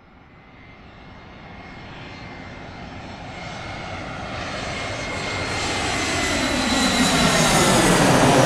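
Airplane flying toward the listener, its engine noise and high whine growing steadily louder and loudest near the end, where the pitch begins to drop as it comes past.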